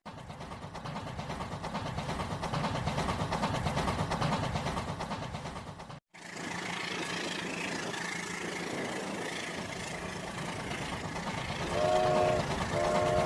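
A train running steadily, broken by a brief drop to silence about six seconds in, with two short horn toots near the end.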